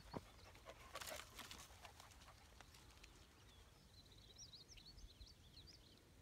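Faint outdoor quiet with a few clicks and rustles in the first two seconds, then a bird chirping faintly in a quick run of short, high notes about four seconds in.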